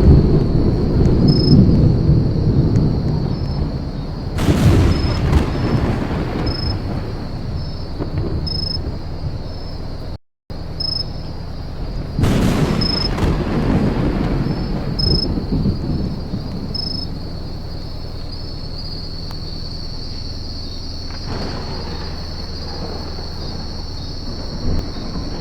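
Thunder rolling during a thunderstorm: a loud rumble at the start, then fresh peals about four and twelve seconds in, each fading into a long low rumble. A steady high tone with short regular pips sounds underneath.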